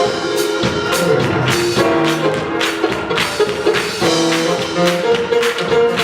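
Upbeat gospel praise music from a live church band, with a steady beat and sustained chords.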